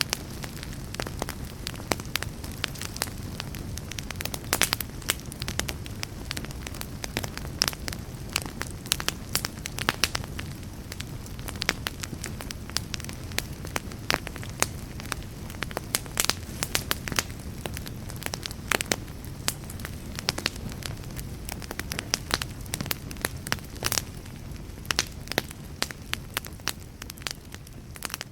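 Fire crackling and popping: dense, irregular sharp pops over a steady low rumble of flame.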